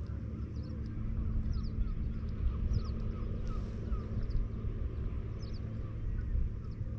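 Birds calling in short high chirps several times, over a steady low rumble of wind and water.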